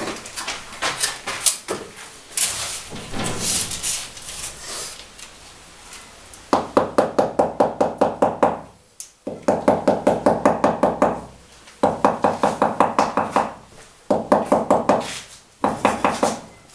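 Masonry work on stone cladding: irregular clinks and scrapes of hand tools, then rapid knocking in four bursts, about five knocks a second, each burst lasting about two seconds.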